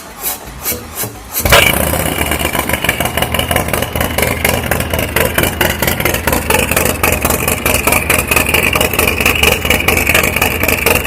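Harley-Davidson Street Glide's V-twin, freshly built up from 114 to 131 cubic inches, being started: the starter cranks it over in a few even pulses, it catches loudly about a second and a half in, then runs with a fast, uneven loping beat.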